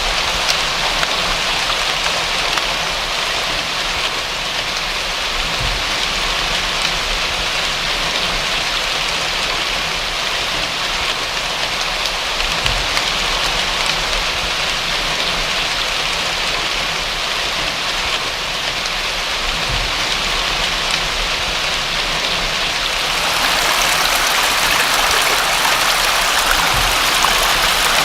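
Steady rain falling on a surface, an even hiss of drops without a break. About 23 s in the sound turns a little louder and hissier.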